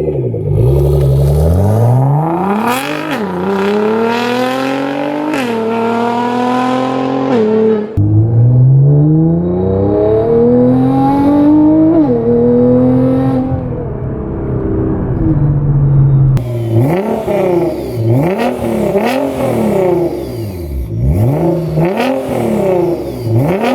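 Nissan GT-R R35's twin-turbo 3.8-litre V6 with a catless downpipe and catback exhaust, accelerating hard with the pitch climbing and dropping at quick upshifts. It then gives a string of short throttle blips, about one a second.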